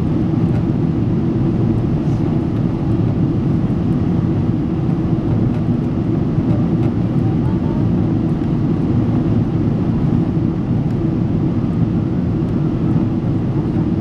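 Boeing 777-300 airliner heard from inside the passenger cabin: a steady, unbroken roar of engines and rushing air, strongest in the low range.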